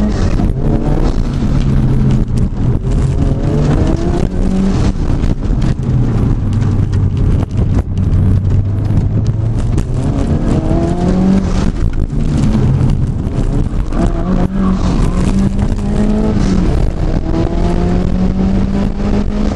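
Subaru WRX STI's turbocharged flat-four engine heard from inside the cabin while driven hard, its revs climbing and dropping back several times.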